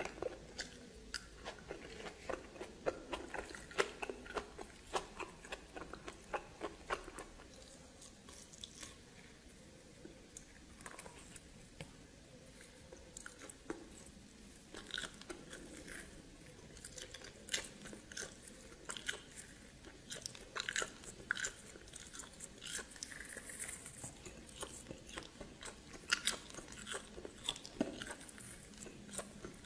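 Close-up mouth sounds of a person biting and chewing steamed snake, with many small, irregular crunchy clicks.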